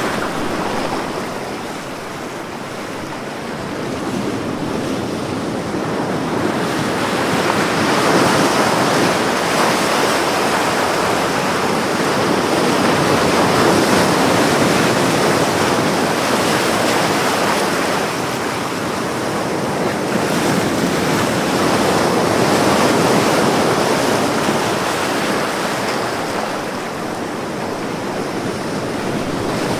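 Ocean waves washing onto a beach, a continuous surf noise that swells and ebbs slowly, a few times over the half minute.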